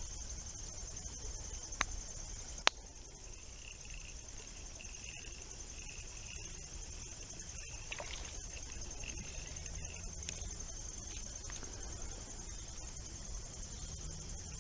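Steady high-pitched chorus of insects, with two sharp clicks about two and three seconds in and a softer chirping through the middle.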